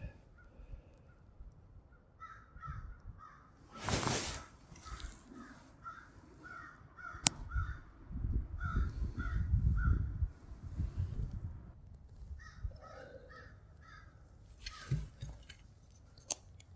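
Bird calls in quick series of short, harsh, evenly spaced notes, two runs of them, over woodland quiet. There is a brief rustle about four seconds in, a sharp click a few seconds later, and a low rumble of handling noise in the middle.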